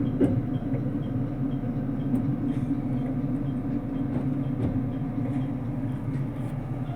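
Steady running rumble inside a JR Kyushu 787 series limited express carriage, with a few faint clicks.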